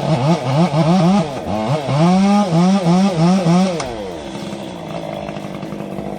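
An engine revving up and down again and again, with quick rises and falls in pitch, then easing back to a quieter, steadier run for the last couple of seconds.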